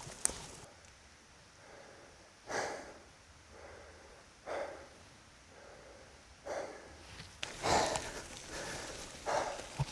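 A person breathing hard, with a loud puff of breath about every two seconds.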